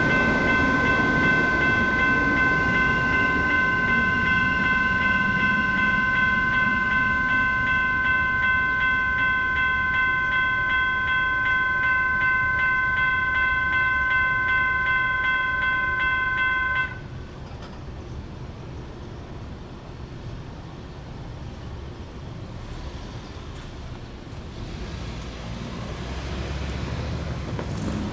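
US&S E-Bell electronic crossing bell ringing rapidly, with a train rumbling underneath. The bell cuts off suddenly a little over halfway through, leaving steady road traffic noise.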